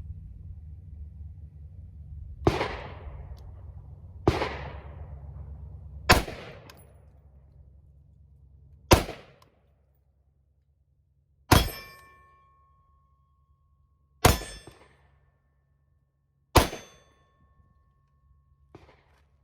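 Seven single shots from an AR-15–style pistol, two to three seconds apart. The last three are each followed by a clear metallic ring, the sound of the bullet striking a steel target.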